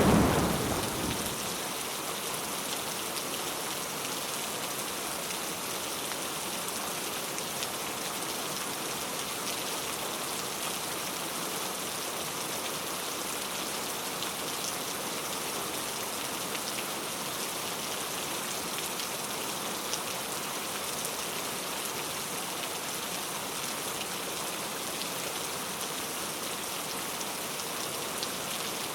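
Steady rain falling, an even hiss. Near the start the tail of a thunderclap rumbles and fades away within the first second or two.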